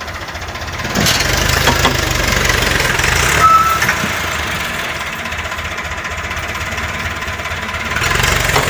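Tractor engine running with a knocking rumble. It revs up about a second in, eases back around four seconds and picks up again near the end. A brief high squeal sounds at about three and a half seconds.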